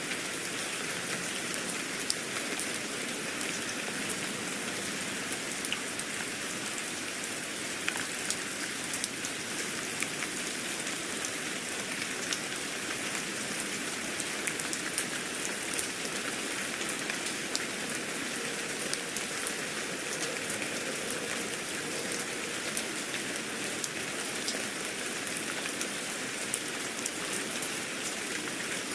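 Steady rain falling, an even hiss with many small drops pattering and ticking throughout.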